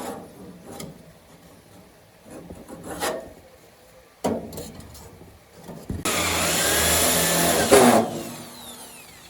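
A few sharp knocks, then about two seconds of loud rubbing from hand work on the mill's parts, which stops abruptly.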